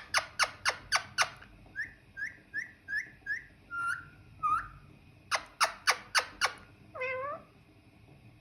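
Pet parrot clicking sharply, about four clicks a second, then a run of five short chirping whistles and two longer whistles. A second burst of clicks follows, then one longer drawn-out call near the end.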